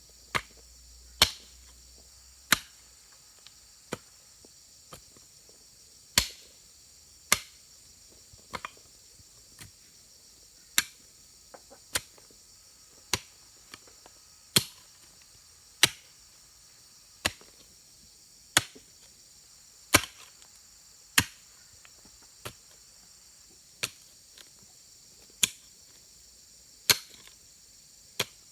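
Rhythmic strikes of a hand tool, one sharp blow roughly every one and a half seconds, with a few quieter taps between. Crickets or similar insects buzz steadily throughout.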